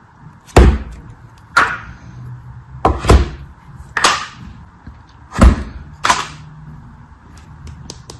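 A series of seven sharp, loud knocks, each a low thud with a bright crack, coming irregularly about a second apart.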